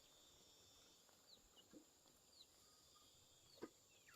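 Near silence of a quiet rural outdoor scene, with a few faint, short falling bird chirps and a steady faint high-pitched whine. One sharp tap sounds a little before the end.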